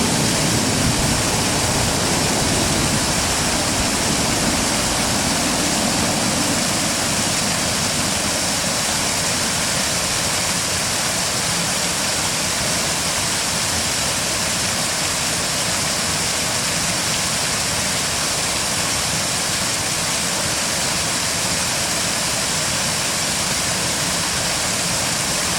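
Stream water rushing steadily, an even hiss of fast-flowing current.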